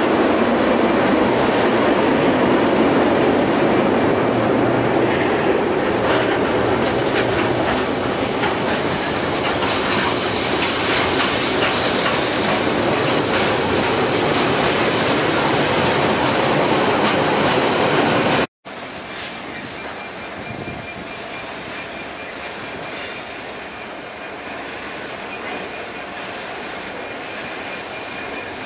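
Container freight train hauled by Class 90 electric locomotives passing close by: the wagons' wheels rumble and clatter over the rail joints, with a faint high squeal at times. After an abrupt cut about two-thirds of the way in, a quieter, steady sound of a more distant freight train hauled by a GBRf Class 66 diesel.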